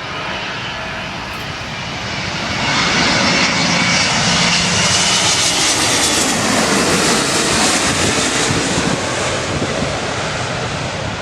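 Airliner passing low overhead: the engine noise swells about two and a half seconds in, is loudest midway, then slowly fades, with a tone that drops in pitch as it goes by.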